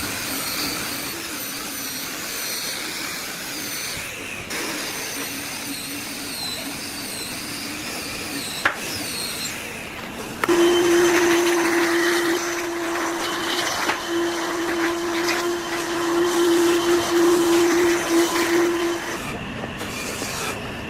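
Electric power tool running with a steady whirring hiss and a wavering high whine, one sharp click partway through. About halfway in, a louder motor starts with a steady humming tone, runs for about eight seconds, then drops off near the end.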